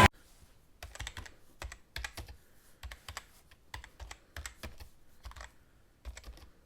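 A run of light, irregular clicks and taps, a dozen or more in quick uneven succession, starting about a second in and stopping shortly before the end.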